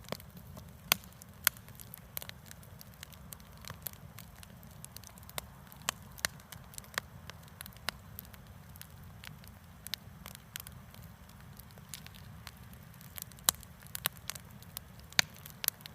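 Campfire burning, with sharp crackles and pops from the wood at irregular intervals over a soft steady hiss.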